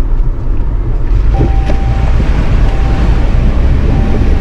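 Jeep driving through a deep muddy water hole, its engine running under water splashing and surging, with heavy wind rumble on the microphone. A thin whine comes and goes from about a second in.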